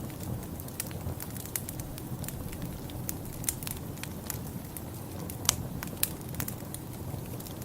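Wood fire in a fireplace crackling, with frequent sharp pops over a steady low rumble. The two loudest pops come about five and a half and six seconds in.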